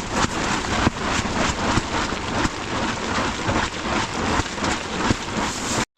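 Storm noise: a loud, steady rush with a dense patter of small hits, as wind-driven precipitation beats down in a blizzard. It cuts off abruptly near the end.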